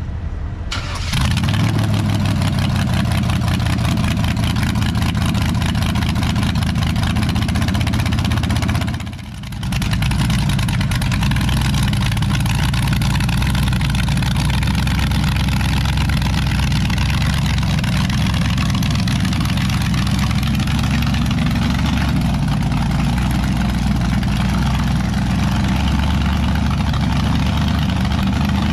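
Car engine running at a steady idle, a deep low rumble that drops away briefly about nine seconds in and then carries on.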